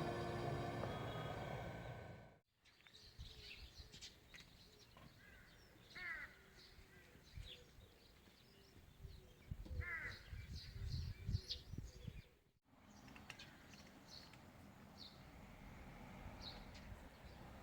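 Background music ending with a cut, then outdoor ambience with small birds chirping, a short harsh bird call heard twice, and a few low thumps and rustles.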